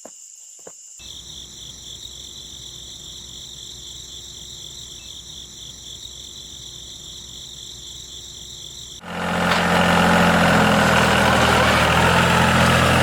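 Small motor of a DIY crawler mini truck switching on suddenly about nine seconds in and then running loudly and steadily with a buzzing hum. Before it there is only a faint, steady high-pitched whine.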